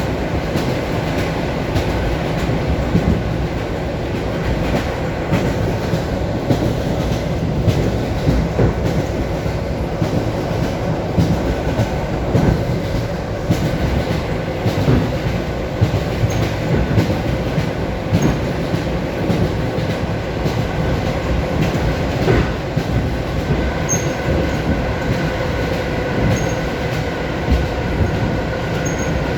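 Wheels of an ED9M electric multiple unit clacking over rail joints as the train runs at speed, heard inside the carriage over the steady rumble of the running gear, with a faint steady hum.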